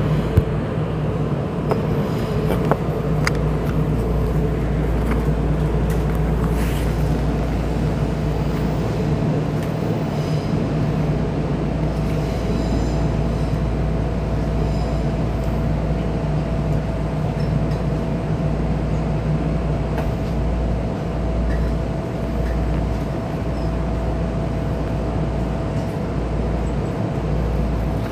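Keisei 3500 series electric commuter train running, a steady rumble of wheels and running gear on the track, with a faint steady hum that comes in about halfway through.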